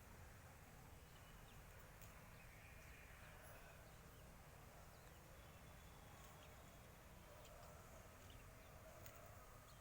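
Faint bird chirps: short, scattered, high-pitched calls over a low, steady background noise.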